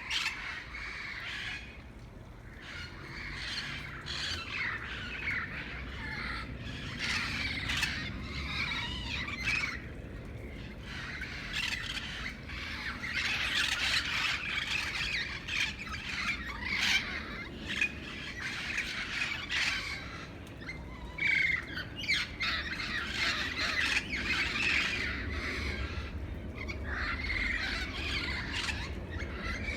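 A flock of green, red-headed parrots squawking, many harsh calls overlapping almost without a break, growing busier about halfway through.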